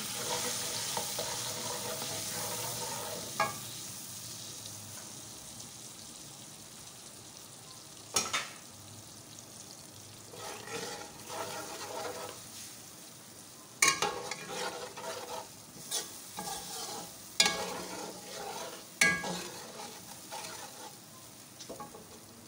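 Spice masala sizzling in hot oil in a metal pan while it is fried down (bhuna), stirred with a metal slotted spatula. The spatula scrapes and knocks against the pan about half a dozen times, and the sizzle slowly dies down.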